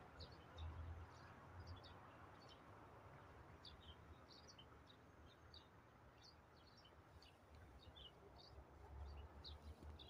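Small birds chirping faintly: many short, high calls scattered throughout, over a faint low rumble.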